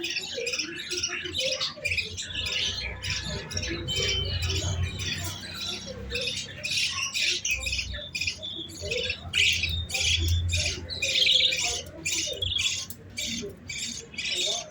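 Young pet birds squawking in rapid, raspy begging calls at feeding time, many short calls a second, with no break.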